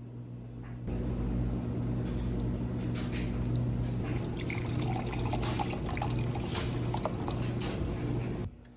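Steak sizzling on a hot grill: a steady hiss dotted with crackles and pops, starting abruptly about a second in and cutting off near the end, over a low steady hum.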